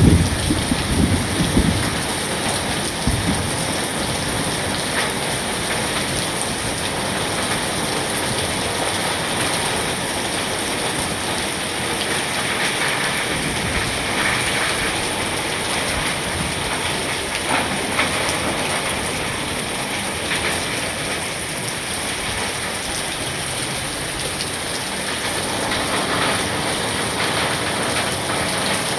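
Steady heavy rain pouring down and splashing on surfaces, with a low rumble in the first couple of seconds.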